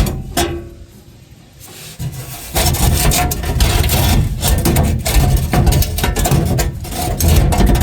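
Loud rubbing and scraping of parts being worked by hand, full of short scratchy strokes. It starts about two and a half seconds in, after a sharp click.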